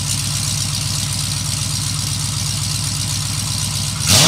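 Car engine idling through a true dual exhaust with bullet mufflers, a steady rhythmic burble. Near the end the throttle is stabbed and the engine revs up sharply.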